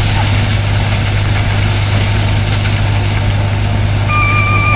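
Bobcat skid-steer loader engine running steadily at idle. Near the end a brief steady high tone sounds.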